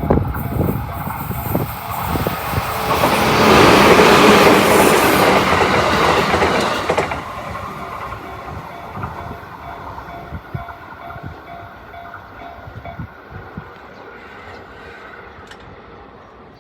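Train passing over a level crossing, its wheels clacking over the rail joints. The noise swells to its loudest about four seconds in, then dies away after about seven seconds. The crossing's warning bell rings faintly in a steady repeating pattern beneath it and stops about thirteen seconds in.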